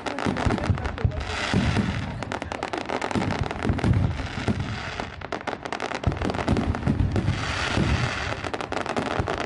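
Fireworks display: a rapid, continuous series of booms and crackles, with denser crackling around two seconds in and again near the end.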